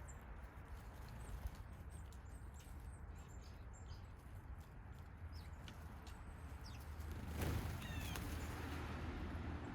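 Small songbirds chirping, with many short, high calls scattered throughout over a low steady rumble. About seven and a half seconds in, a louder rush of noise sets in, with a brief repeated call.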